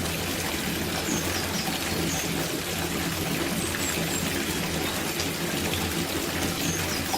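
Water pouring steadily from a tap into an outdoor copper bathtub as it fills, with a few short high chirps over it.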